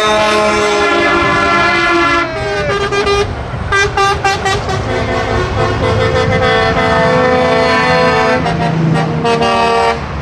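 Truck air horns sounding as a convoy of trucks passes: long held blasts at shifting pitches, a run of short toots a few seconds in, then more long blasts that stop shortly before the end.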